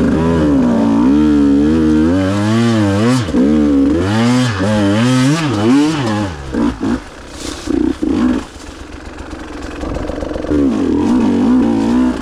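KTM EXC 150 two-stroke enduro motorcycle engine, revved up and down over and over with the throttle. About eight seconds in it drops to a quieter lull, then picks up again with more revving near the end.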